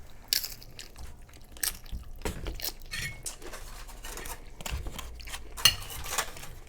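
Crunching and chewing of Doritos nachos, with scattered clinks of cutlery on a plate; the sharpest click comes near the end.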